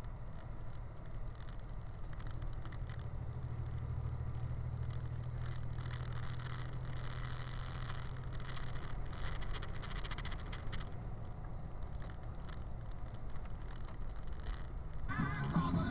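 Big truck's engine running steadily while driving, a low even drone with light rattles over it. Rock music comes in near the end.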